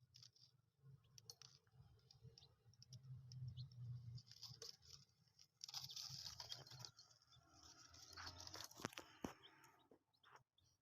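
Baby chicks moving about, with faint scratching, pecking clicks and occasional soft peeps, busiest in the second half.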